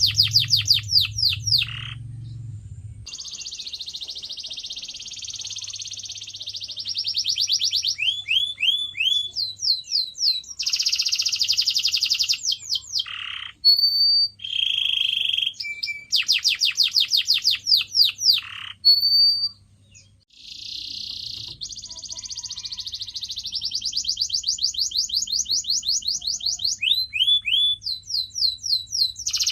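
Domestic canary singing a long, varied song: rapid trills and rolls of fast repeated notes and falling sweeps, broken now and then by a short clear whistled note.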